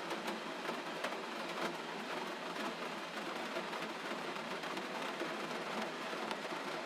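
Gentle steady rain, with scattered single drops ticking through it.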